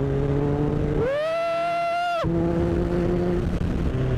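Motorcycle engine idling, revved once about a second in: the pitch climbs, holds high for about a second, then drops quickly back to idle.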